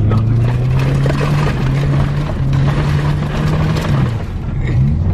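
Subaru Impreza 2.5 RS with its muffler deleted, its 2.5-litre flat-four engine pulling steadily while driving, with a loud unmuffled exhaust note. The engine note holds, falls away about four seconds in as the revs drop, then climbs again near the end.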